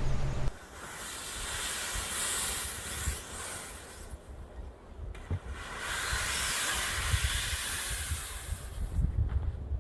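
Snowstorm wind gusting: a hissing rush that swells and fades twice, with low buffeting of wind on the microphone.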